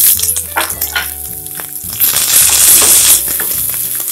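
Green chillies, garlic, ginger and fresh coriander leaves sizzling in hot oil in a nonstick frying pan. The sizzle swells louder for about a second midway, and the pan is stirred near the end.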